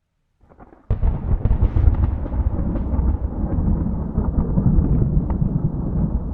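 Thunder: after a brief silence, a sudden clap breaks about a second in. It rolls on as a long, loud, low rumble with sharp crackles through it.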